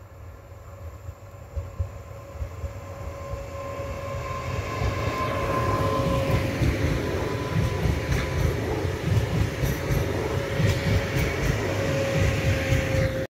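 Electric multiple unit passenger train approaching and passing close by: wheel-on-rail rumble and a steady whine, growing louder over the first few seconds, then staying loud as the carriages go past. It cuts off suddenly at the very end.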